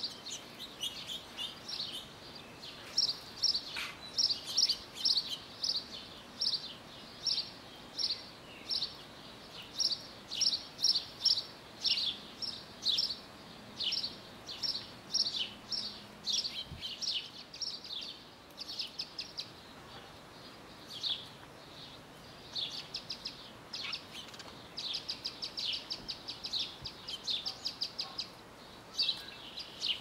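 Backyard birds chirping: a steady series of short, high chirps, about two or three a second, with a quicker run of chirps about three-quarters of the way through.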